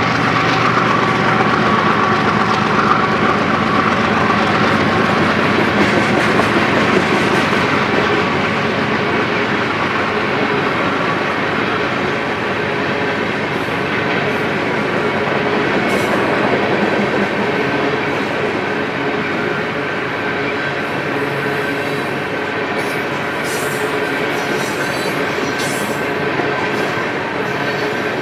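Freight train of tank cars rolling past, a steady rumble of steel wheels on rail with clickety-clack. The diesel locomotives' drone fades out in the first couple of seconds, and sharp high wheel noises come and go in the second half.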